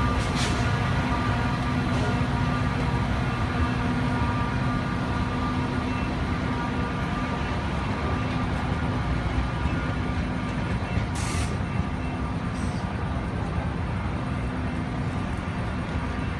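A train running with a steady low rumble and hum, slowly growing fainter. A short hiss comes about eleven seconds in.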